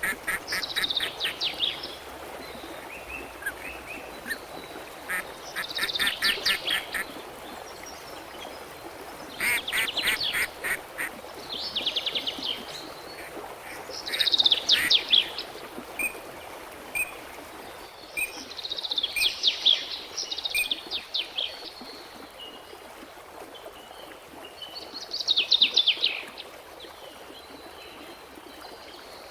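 Birds calling in repeated bursts of rapid, chattering notes, each burst lasting about a second and coming every few seconds, over a steady background hiss.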